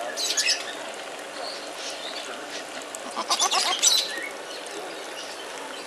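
Small birds chirping in two short bursts over outdoor background noise: one just after the start and a busier run of quick chirps around three to four seconds in.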